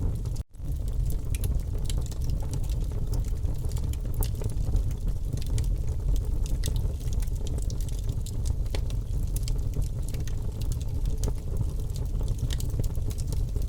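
Wood fire in a fireplace crackling: a steady low rumble with frequent sharp pops and snaps. The sound cuts out for an instant about half a second in.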